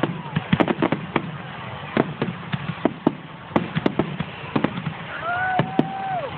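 Aerial fireworks going off: a rapid, irregular string of sharp bangs and crackles from bursting shells.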